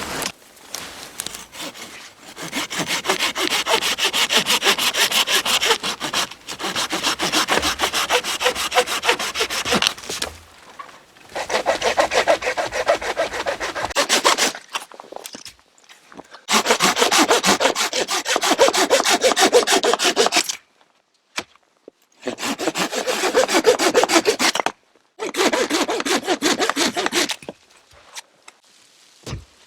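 Hand saw cutting firewood with quick back-and-forth strokes, in about six bouts of several seconds each with short pauses between.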